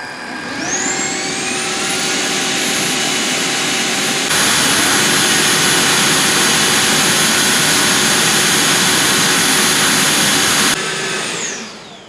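Tineco S6 Floor One Stretch wet-dry floor washer running its self-cleaning cycle on its base. The motor spins up with a rising whine, steps up louder about four seconds in, and winds down with a falling whine near the end.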